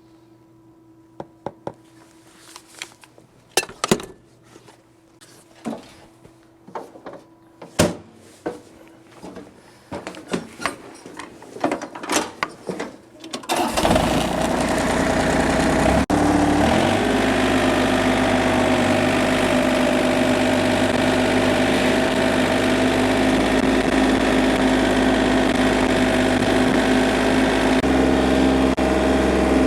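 A run of scattered clicks and knocks, then about halfway through a small diesel engine, most likely the John Deere 955 compact tractor's three-cylinder diesel, starts and settles into a steady idle.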